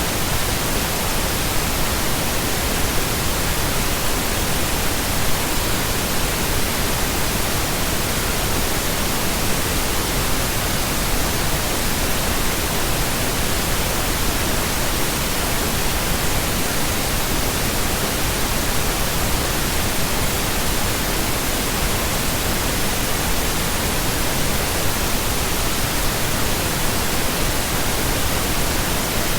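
Steady, unchanging pink noise: an even hiss spread across the whole range of pitch, with no breaks.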